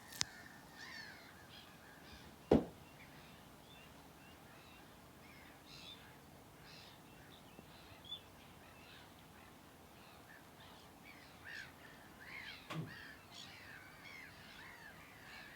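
Many birds giving short harsh calls, overlapping one another. A loud knock comes about two and a half seconds in, and a softer one near thirteen seconds.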